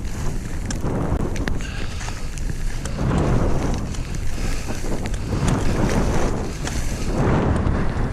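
Wind rushing over a GoPro's microphone while skiing downhill, swelling and easing every second or two, with skis hissing and scraping over the snow and a few short ticks.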